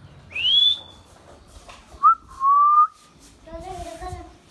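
Indian ringneck parakeet whistling: a clear rising whistle, then a lower, longer whistle that rises slightly, followed near the end by a quieter voice-like talking call.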